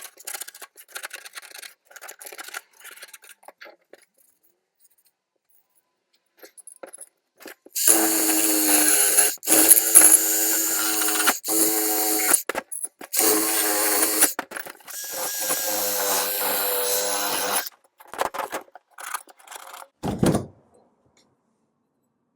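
A small handheld power tool running in about five bursts of one to three seconds each, starting about eight seconds in and stopping near the end, with a steady pitched motor hum. Light clicks and handling knocks come before and after.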